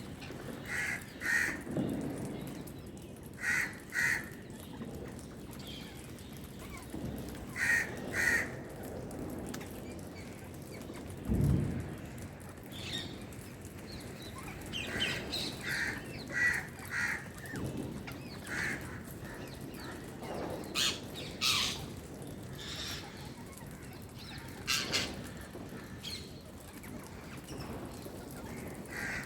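Birds calling: short, harsh cawing calls, mostly in pairs, repeated every few seconds. There is a single dull low thump about eleven seconds in.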